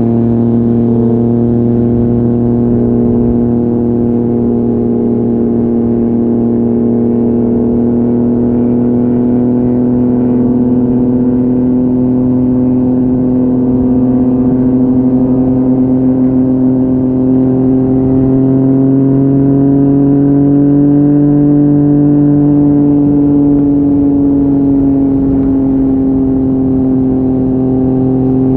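Yamaha MT-09's 847 cc inline three-cylinder engine running through an Akrapovic exhaust at a steady cruise, its pitch climbing slowly for about twenty seconds and then easing off a little near the end.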